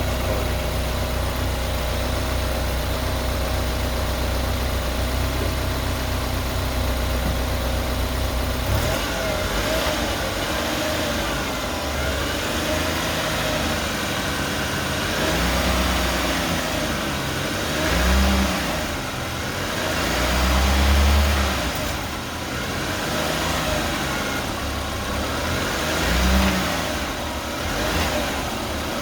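BMW 228i's N20 turbocharged four-cylinder engine running with a steady whine. The sound holds steady for about the first nine seconds, then the revs rise and fall several times. The owner is unsure whether the whine is normal.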